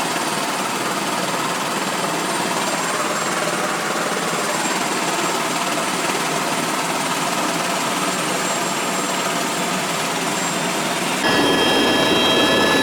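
Tour helicopter running, its steady engine and rotor noise heard from inside the cabin. About eleven seconds in the sound abruptly gets louder and fuller, with several steady high whining tones.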